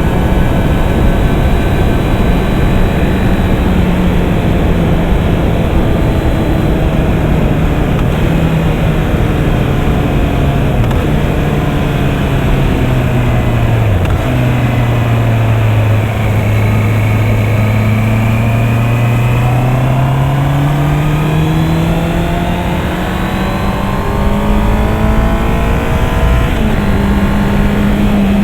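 Honda CB650R inline four-cylinder engine running under way, with wind rush. The engine note drops gradually through the first half as the bike slows, stays low for several seconds, then rises steadily again as it accelerates.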